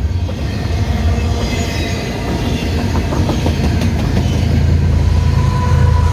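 Canadian Pacific intermodal freight train rolling past with a loud, low, steady rumble, its wheels clicking over rail joints a few times midway. A thin high whine comes up near the end.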